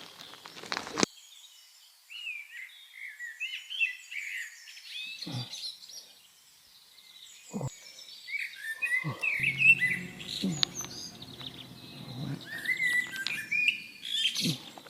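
Small birds chirping and twittering in quick, high calls through most of the stretch. A low steady hum joins in about halfway through.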